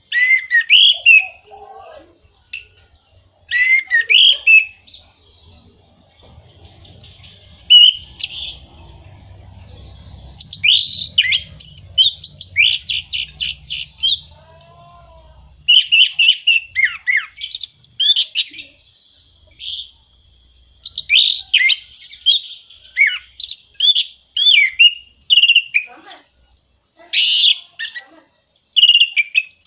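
Orange-headed thrush singing: varied phrases of loud whistled notes and fast chattering runs, with short pauses between phrases.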